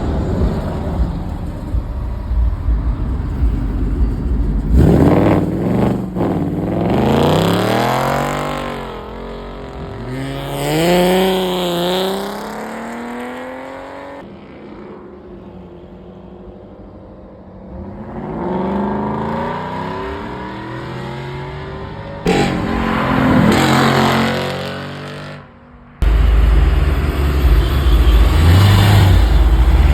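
Several cars accelerating hard one after another: each engine's pitch climbs and falls back at the gear changes, and the sound cuts abruptly between passes. A loud, heavy low rumble fills the last few seconds.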